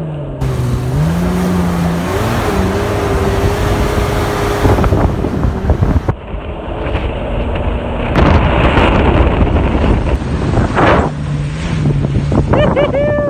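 Mitsubishi Pajero 4x4 engine running and rising and falling in pitch as it is driven on sand, under heavy wind noise on the microphone, with an abrupt cut about six seconds in. Near the end comes a short cry that falls in pitch.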